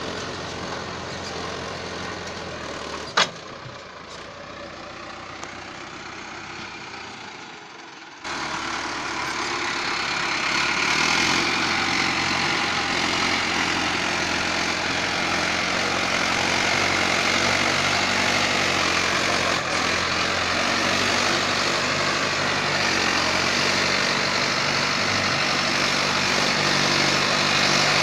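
A Mahindra tractor's diesel engine runs steadily, with a single sharp click about three seconds in. About eight seconds in, the sound jumps abruptly to a louder engine with more hiss, which stays steady to the end: the tractor pulling a tota plough.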